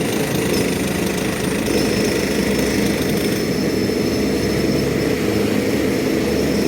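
Heavy diesel engine running steadily at a construction site. A thin, steady high whine joins about two seconds in.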